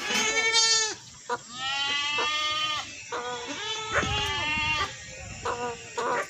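Goats bleating, a series of long wavering calls one after another, with a couple of shorter bleats near the end.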